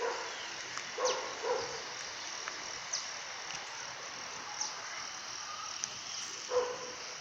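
Outdoor ambience of insects chirping over a steady hiss, with a few faint short sounds about a second in and again near the end.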